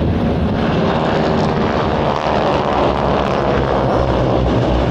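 Aircraft engine droning steadily, a dense tone that is strongest around the middle.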